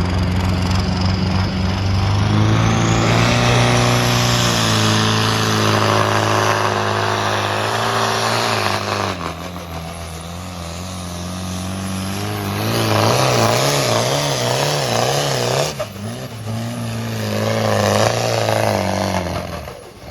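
Pulling tractor's engine running hard under load during a pull: the engine note climbs a few seconds in and holds, eases off, then comes back loud with a wavering pitch before cutting off sharply near the end.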